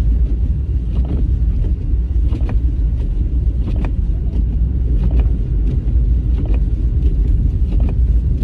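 Steady low rumble of road and engine noise inside a moving car, driving on snowy roads, with a faint tick about every second and a quarter.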